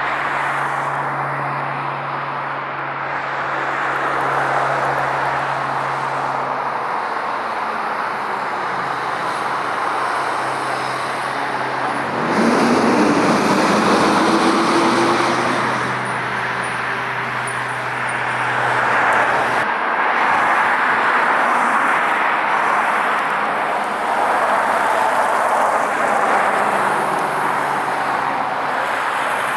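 Road traffic: motor vehicles driving past, with tyre and engine noise and a steady low engine hum, swelling loudest about twelve seconds in and again around twenty seconds.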